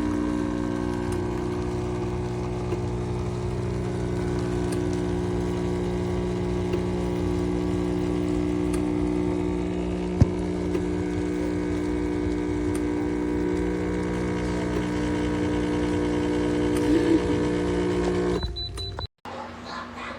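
Home espresso machine's pump humming steadily while it brews, with a single sharp tick about halfway; the hum cuts off abruptly near the end.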